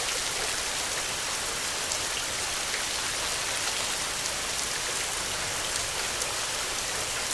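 Steady rain falling, a dense even hiss with scattered ticks of individual drops hitting a surface.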